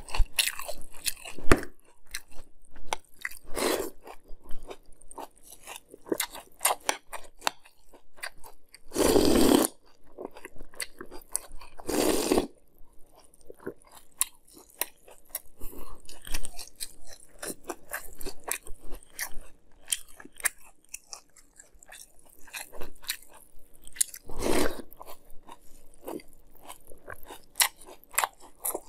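Close-miked chewing of a mouthful of Fruity Pebbles crisp rice cereal in milk: a steady run of small sharp crunches. A few louder half-second noises stand out, the biggest about a third of the way through.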